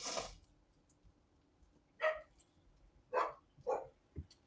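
A dog barking: several short barks a second or so apart, with a soft low thump near the end.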